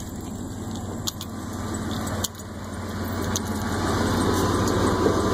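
A vehicle engine idling steadily, growing louder toward the end, with a brief drop about two seconds in.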